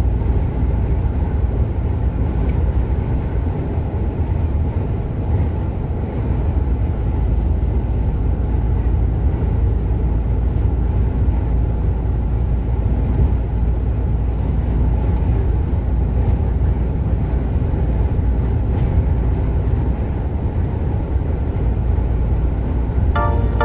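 Mercedes Actros truck driving at highway speed: a steady, low drone of engine and road noise.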